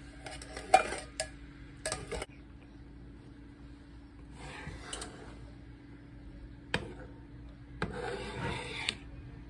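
A spoon stirring and scraping through coconut-milk curry sauce in a pot, with a few sharp clinks against the pan, over a low steady hum.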